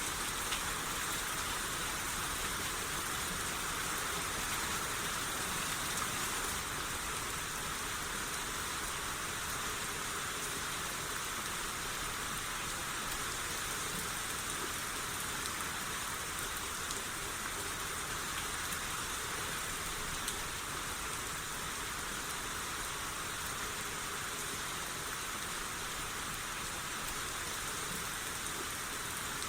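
Steady rain shower falling, an even hiss of rain with scattered faint drop ticks.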